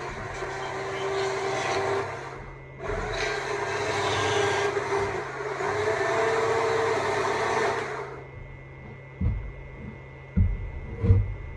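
Stihl MSA 200 C battery chainsaw cutting wood, its motor pitch wavering under load, in two runs with a short break about two and a half seconds in; the saw stops about eight seconds in. A few low thumps follow near the end.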